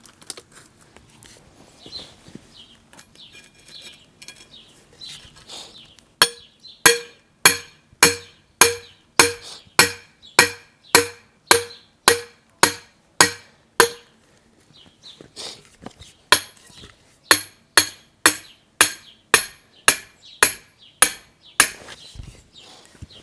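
Hammer striking a metal rod, driving it into the ground: two runs of steady, evenly paced ringing blows, about one and a half a second, with a pause of about two seconds between them.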